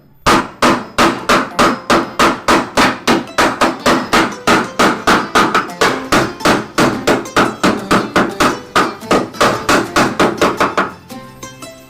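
Hammer striking dented car bodywork in a rapid, even rhythm, about four blows a second, to beat the damage back out; the hammering stops near the end.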